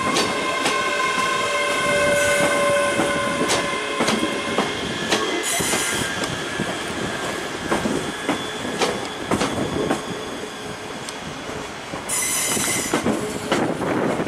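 ScotRail Class 385 electric multiple unit pulling slowly into the platform, its wheels squealing in steady high tones and clicking over rail joints as the carriages pass. Two short high hisses come about five seconds in and again near the end.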